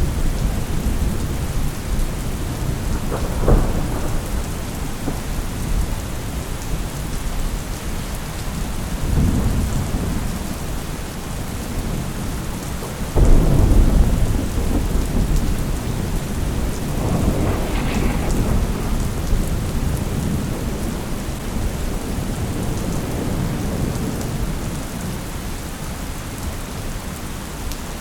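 Thunderstorm: steady heavy rain with thunder rolling in several times, and a sudden, louder thunderclap about halfway through.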